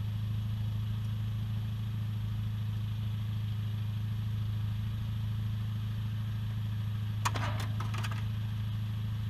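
Motorcycle engine idling with a steady low drone. A short cluster of sharp cracks comes about seven seconds in.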